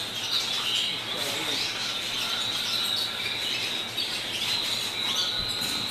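Domestic canary singing a continuous song of fast trills.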